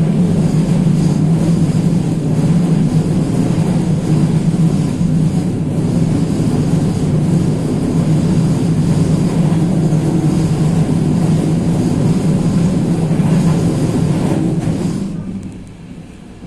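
Train built by Moravskoslezská Vagónka Studénka running along the line, heard from on board: a loud, steady drone with a strong low hum. The drone drops off sharply near the end.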